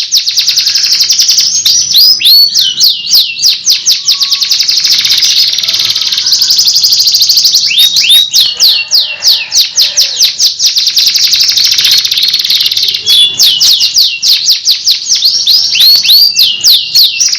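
Domestic canary singing continuously: a fast, unbroken song of rapidly repeated downward-sweeping notes, with rolling trills partway through.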